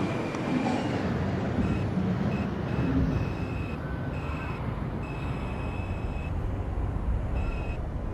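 R142 subway car pulling into a station, a steady rumble of wheels and running gear with a thin high tone from the car that comes and goes several times.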